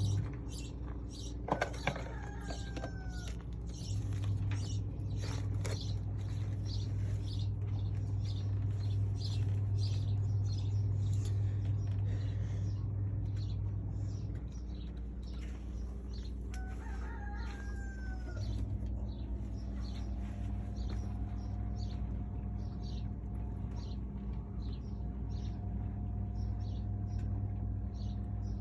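Chickens: a rooster crows twice, about two seconds in and again around seventeen seconds, over a steady low hum and many short clicks and rustles.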